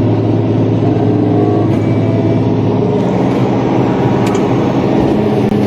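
Caterpillar D8T bulldozer's diesel engine running steadily under load, heard from inside the cab, with a few faint clicks near the end.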